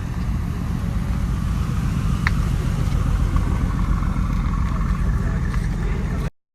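Car engine running with a deep, steady rumble, with a sharp click about two seconds in; the sound cuts off suddenly near the end.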